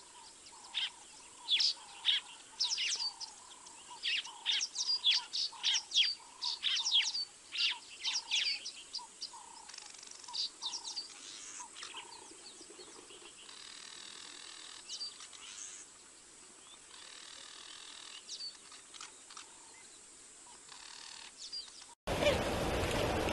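Wild birds calling: a flurry of sharp, high chirps over a lower note repeated about twice a second, thinning out after about twelve seconds. Near the end it cuts abruptly to a loud, dense noise.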